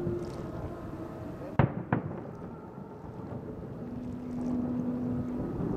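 Two fireworks shells bursting, two sharp booms about a third of a second apart, a second and a half in, heard across the water over a steady low background rumble.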